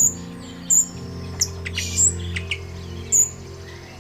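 Birds chirping with short, sharp, high calls, about one every second, over a steady low hum.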